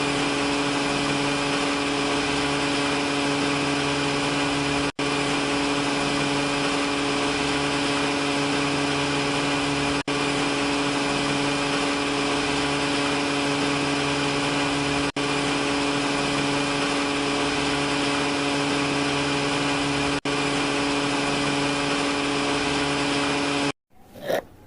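A steady small motor or engine drone at a constant pitch, with very brief dropouts about every five seconds, like a looped recording. It cuts off suddenly near the end.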